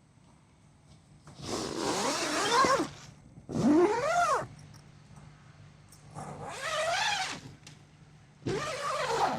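Dog whining in four long, drawn-out calls, each rising and then falling in pitch, about a second or more apiece.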